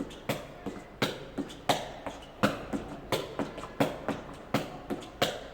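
A jegi (Korean shuttlecock) being kicked over and over, a sharp tap about every three-quarters of a second with lighter taps in between.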